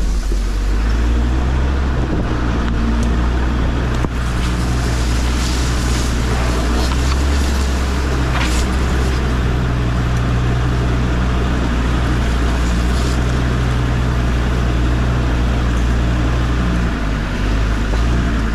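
Suzuki Jimny's swapped-in PD (Pumpe Düse) turbodiesel engine pulling steadily up a rocky track, heard from out of the open window, with the engine note shifting near the end. A couple of sharp knocks sound a few seconds in.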